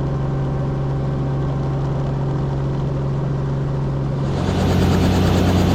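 Helicopter in flight: a steady droning hum from the engine and rotor, which shifts about four seconds in to a louder, hissier sound with a lower hum.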